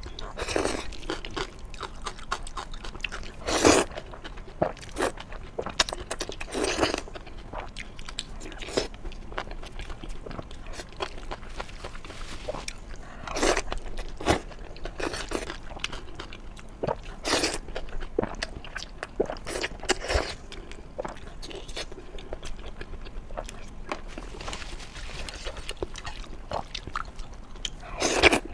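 A person chewing and biting a mouthful of Xinjiang-style stir-fried rice noodles, with irregular crunches and mouth clicks and a few louder bursts.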